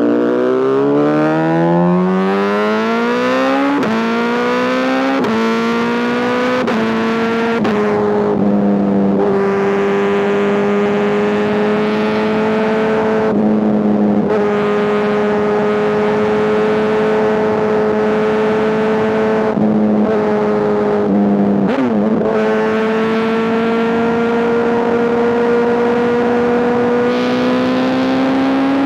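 Honda CBR1000RR inline-four through an SC-Project exhaust, accelerating hard with rising revs and four quick upshifts. It then holds a steady high note while cruising, with a few brief throttle lifts, and picks up again near the end.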